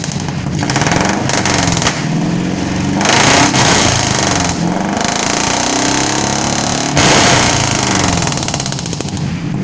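Pick-up truck engine revved up and down several times through an aftermarket DS Racing muffler, each throttle blip rising in pitch and falling back to idle.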